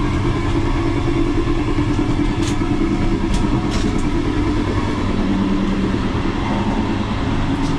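Steady rumble and hum of an old regional train running, heard from inside the carriage, with a few light clicks a little before the middle.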